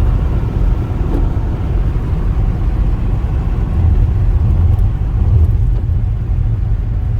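Steady low rumble of a car's engine and tyres heard from inside the moving car, swelling slightly a little past the middle.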